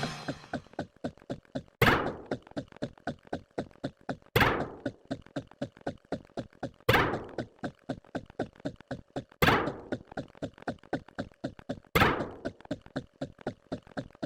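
A repeating loop of sound effects: a loud thunk about every two and a half seconds, with fast, fainter clicking running between the hits.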